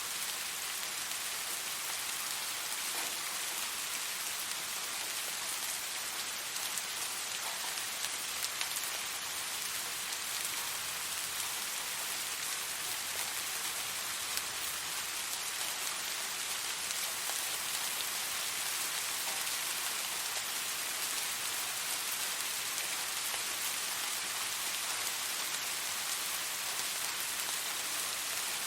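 Steady rain falling: an even, unbroken hiss of many drops, mostly high in pitch.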